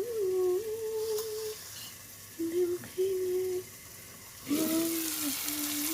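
A woman humming a tune in held, wavering notes, in short phrases with pauses between them. About three-quarters of the way through, a steady hiss like running water or steam starts and continues under the humming.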